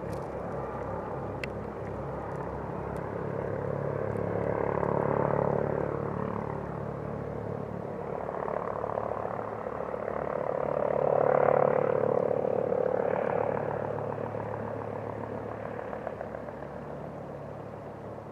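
Helicopter flying over, its rotor and engine sound rising and falling over a steady low hum. It swells twice, loudest a little past the middle, then fades away.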